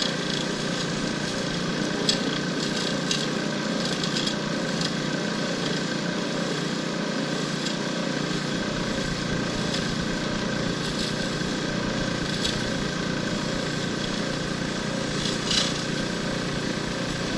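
Lathe running while a turning tool cuts a spinning shifter-knob blank, a steady, even cutting noise with a few sharp ticks. The smooth cutting is the sign the blank has been turned round.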